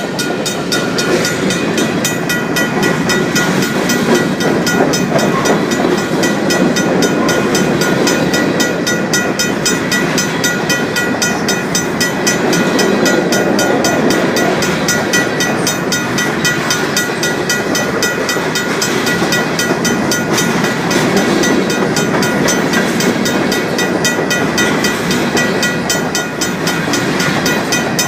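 Freight train cars rolling steadily through a grade crossing, wheels rumbling and clacking on the rails. Over it the crossing's RACO mechanical bell rings without a break in rapid, even strokes.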